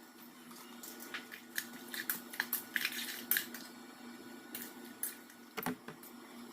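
Kitchen handling noises while preparing chicken: a run of short crackles and clicks for a couple of seconds, a few scattered clicks, then one low thump near the end, over a steady low hum.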